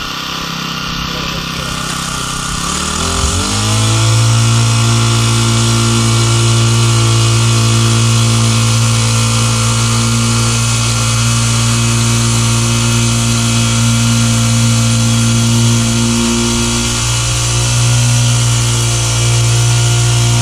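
Small gasoline engine revving up about three seconds in, then running steadily at high speed.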